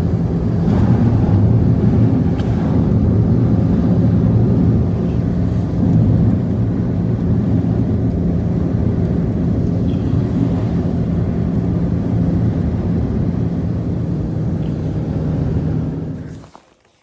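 An engine running steadily: a loud, low rumble with a steady hum. It starts abruptly just as the sound begins and cuts off suddenly near the end.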